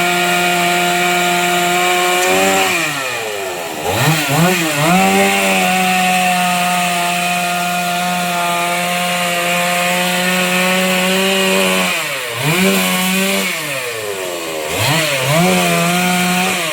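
Two-stroke chainsaw running at high revs on the tree that fell across the bridge. Its speed drops and climbs back a few seconds in, and twice more near the end.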